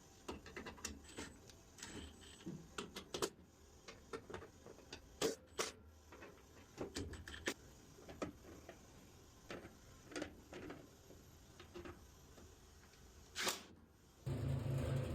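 Irregular clicks and knocks of hard objects being handled, then about fourteen seconds in a motor starts and runs with a steady low hum.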